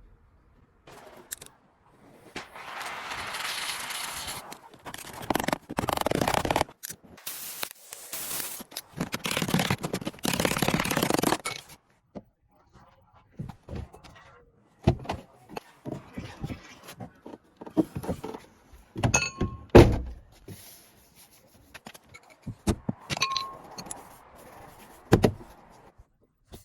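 Metal bodywork on a car's aluminium fender panel. First come several bursts of scraping noise, each a second or two long. Then come scattered knocks and clanks on the metal, a couple of which ring briefly.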